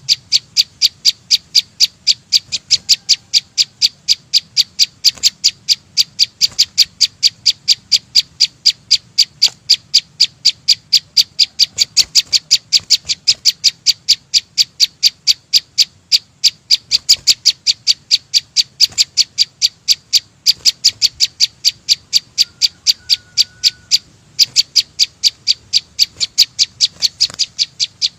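A small songbird, the 'chim sâu xanh', giving a high-pitched chip note over and over at an even pace of about three notes a second.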